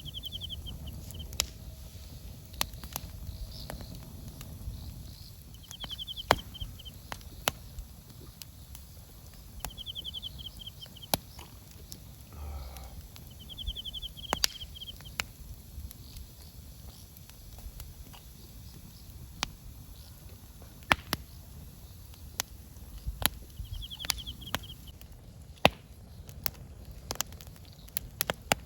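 Wood campfire crackling, with sharp irregular pops over a low steady rumble. A bird repeats a short trilled call five times, every few seconds.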